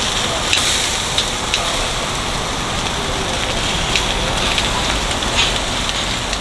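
Food sizzling in a hot pan: a steady crackling hiss with a few sharp pops of spitting fat.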